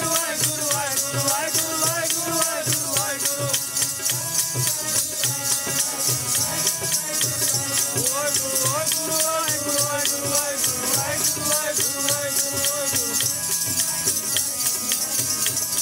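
Sikh kirtan music: a voice singing a wavering devotional melody over rhythmic percussion, with a constant jingling rattle running through it.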